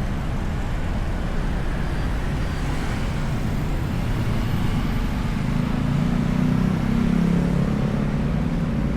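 Steady road traffic rumble. A vehicle engine's hum grows louder about six seconds in and fades slightly near the end.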